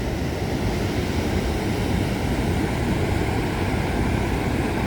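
Waterfall rushing in a steady, loud wash of noise, heaviest in the low end.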